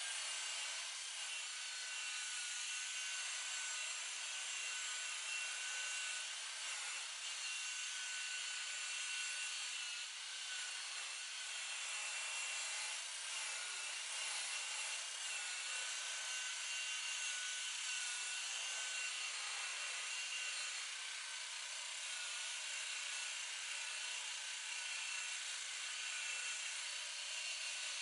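Electric buffer running steadily, polishing a boat's oxidised gelcoat hull with compound: an even whir with a faint steady high whine.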